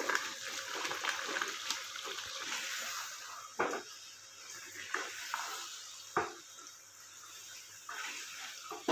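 Diced kaddu frying in hot oil and masala in a pan, sizzling steadily, with a few knocks and scrapes of a wooden spoon stirring it, the sharpest about three and a half and six seconds in.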